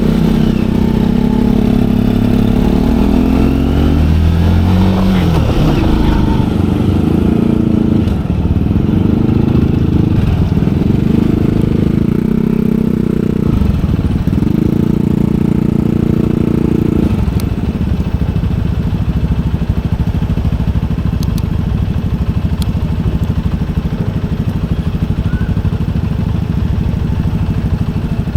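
Motorcycle engine running under way, its note falling about four seconds in, then dipping and picking up again about four times before holding steady for the second half.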